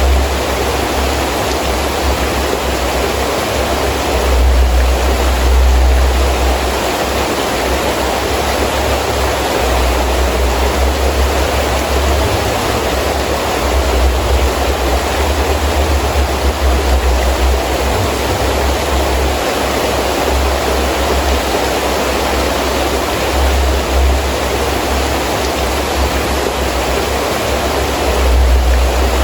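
Heavy rain falling steadily, with gusting wind that rumbles low and swells and eases every few seconds.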